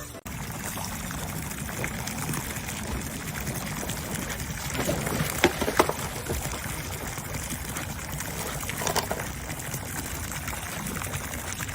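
Water running or pouring steadily, with a few brief knocks about halfway through.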